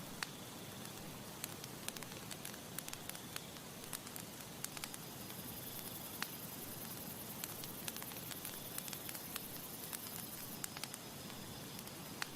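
Campfire burning, with a steady soft hiss and frequent irregular sharp pops and snaps of burning wood.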